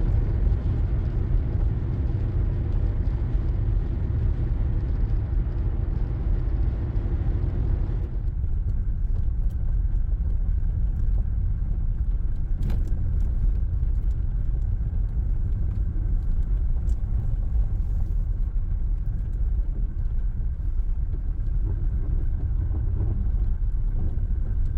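A car being driven: a steady low rumble of road and engine noise. About eight seconds in, the higher hiss drops away and the low rumble carries on.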